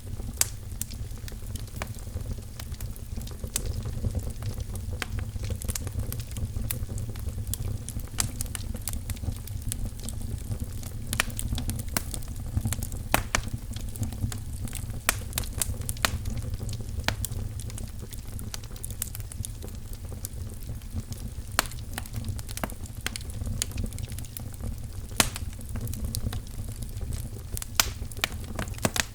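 Wood fire burning in a fireplace: a steady low rumble with irregular sharp crackles and pops from the burning firewood.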